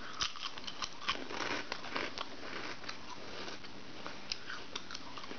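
Someone chewing a crunchy Cheetos Pandilla corn snack: irregular faint crunching crackles.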